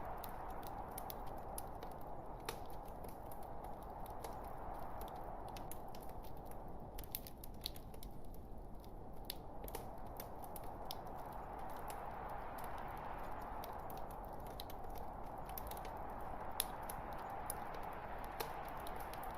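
Logs burning in a fireplace, crackling: a steady hiss of the fire under frequent small, sharp pops, with one louder pop near the end.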